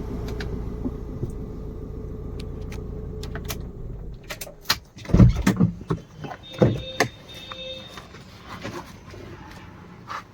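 Chevrolet Enjoy diesel engine idling with a steady low hum that stops about four seconds in. Clicks and two heavy car-door thumps follow, with a short electronic beep between them.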